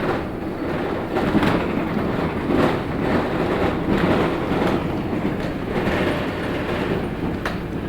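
Interior ride noise of a LiAZ-6213.65 articulated city bus under way: a steady engine and road rumble with a string of short knocks and rattles, several a second or so apart.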